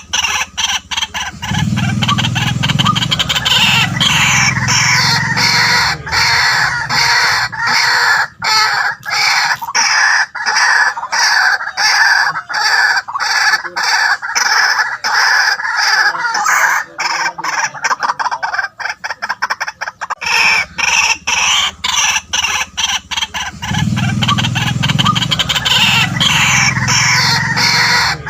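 White-breasted waterhen calling: a loud, unbroken run of rapid, repeated notes.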